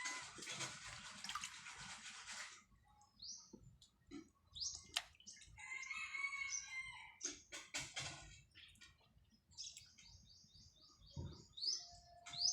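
A rooster crowing faintly, one drawn-out call in the middle, with small birds giving short high chirps and a quick trill near the end.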